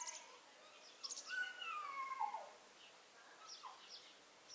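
Animal calls: a few short high chirps and, about a second in, a long call that falls in pitch, with fainter chirps near the end.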